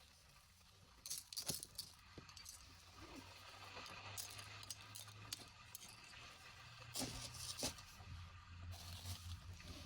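Small hard objects rattling and clinking as they are handled, in two short clusters, one about a second and a half in and one near seven seconds, over a faint steady hiss.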